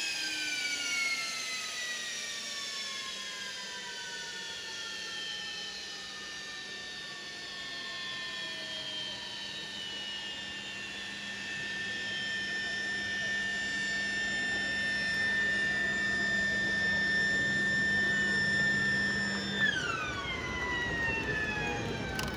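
F-15J fighter's jet engines shutting down. The turbine whine slides steadily down in pitch as an engine spools down, while a steady high whine holds. Near the end that whine also drops quickly in pitch as the last engine winds down.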